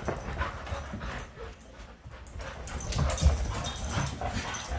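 Dogs at rough play, with scuffling and irregular thumps that get louder from about halfway through.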